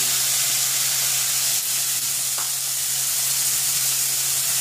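Chopped onions and freshly added diced tomato sizzling in hot oil in a kadhai: a steady, even hiss.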